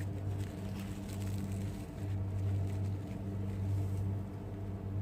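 Steady low hum that swells and eases slowly in level.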